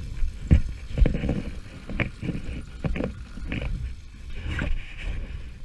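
Irregular thumps and scuffs, several sharp knocks within a few seconds, over a low rumble.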